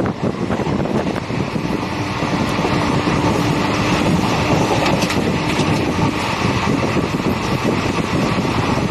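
Express passenger train running, a steady dense rumble and rush of noise with a faint hum.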